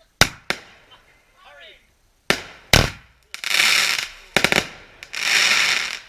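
Fireworks going off: a string of sharp bangs, and twice a dense crackling hiss lasting about a second.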